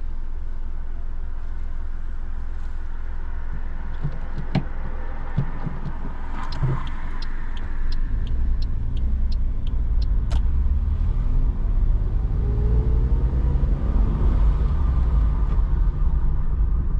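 Car running and road noise heard inside the cabin as the car pulls away and gathers speed, louder from about eight seconds in, with a rising engine note a little later. In the middle comes a run of regular ticks, about three a second, from the indicator signalling to move off.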